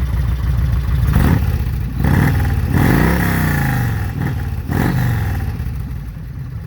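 Yamaha Road Star V-twin idling through a homemade 2-into-1 exhaust that ends in a 4-inch RCX Harley touring slip-on muffler. From about a second in, the throttle is blipped several times, the biggest rev near the middle. Each time the engine drops back to a low idle.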